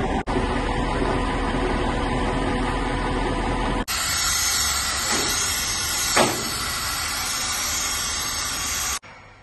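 Steady loud hissing and rushing noise, broken by abrupt cuts. After about four seconds it becomes brighter and hissier, with a brief sharp sound about six seconds in. Near the end it cuts to a much quieter background.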